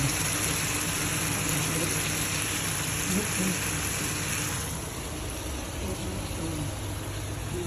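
Diced beef and onions sizzling in a frying pan over the steady hum of a kitchen range-hood fan; the sizzle drops away about five seconds in, leaving mostly the fan.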